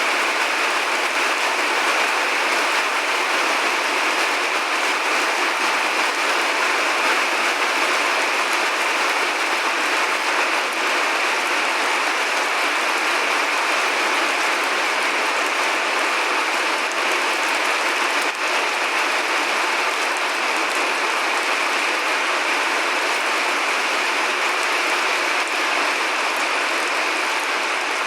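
Steady rain falling: an even, unbroken hiss with no thunder in it.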